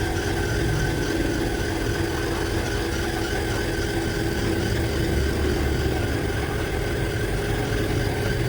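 A motor running steadily, a constant hum over a hiss, without change.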